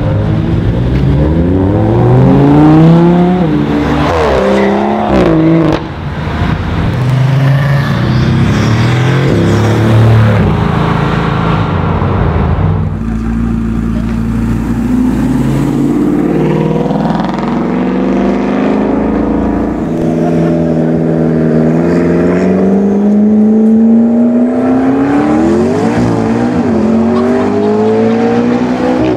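Sports car engines accelerating hard, one car after another, each engine note climbing and falling with the revs and gear changes. The longest pull comes near the end, a steady rise in pitch over several seconds.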